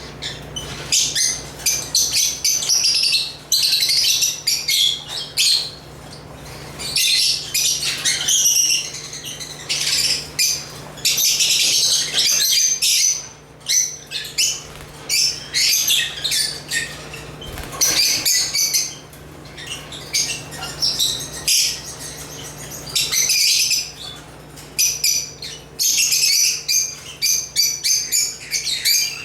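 African lovebirds (Agapornis) chirping in rapid, dense high-pitched chatter that comes in bouts a few seconds long with brief pauses between. A steady low hum runs underneath.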